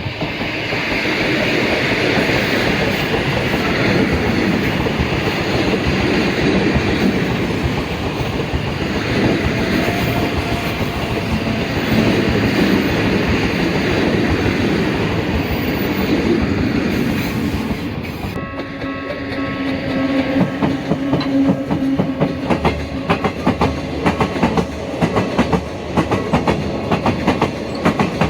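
A Sangi Railway train running past close by. A dense, steady rumble of wheels and running gear gives way, about eighteen seconds in, to a fast, regular clickety-clack of wheels over rail joints.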